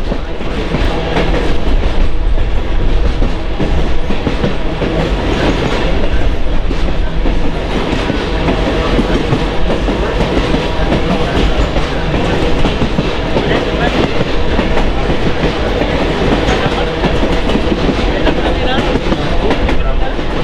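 Train rolling along the track, a steady rumble with wheels clicking over the rail joints.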